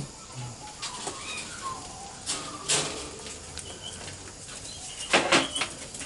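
Birds in an aviary: a few faint short calls and rustling, with a brief wing flutter about two and a half seconds in and a louder short call just after five seconds.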